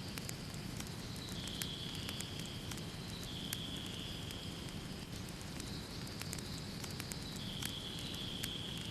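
Wood fire in a fireplace crackling, with frequent sharp pops over a steady low rumble of flames. A faint high hiss comes and goes every second or two.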